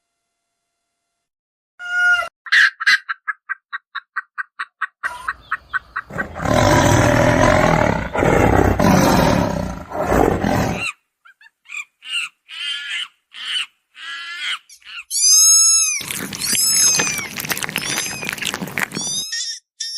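A string of different animal calls and cries in quick succession: first a rapid run of short pitched calls, then a long harsh roar-like cry, then short chirps, and near the end loud high, arching calls.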